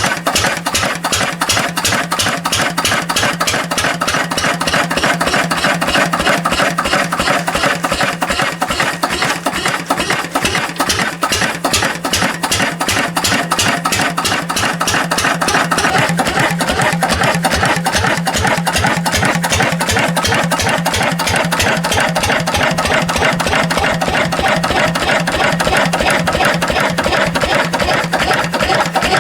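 Lister CS stationary diesel engine running steadily on its first startup after a rebuild, its firing strokes making a rapid, even beat.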